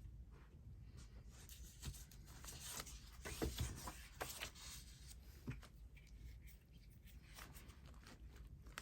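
Soft rustling and rubbing of paper being handled and pressed down, with a few light knocks.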